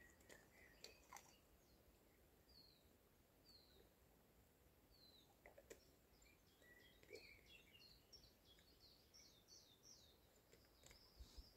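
Faint songbird calls in a quiet forest: a few single short chirps that fall in pitch, then a quick run of repeated chirps just past the middle, with a few faint clicks.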